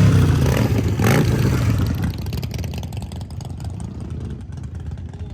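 Motorcycle engine revving: a throttle blip about a second in, then it fades to a low rumble.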